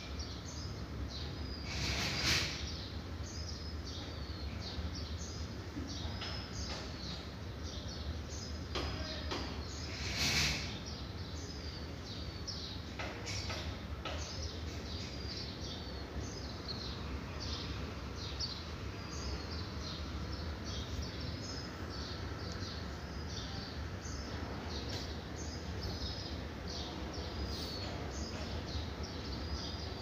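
Small birds chirping again and again over a steady low hum, with a few brief louder rustling noises, about four of them.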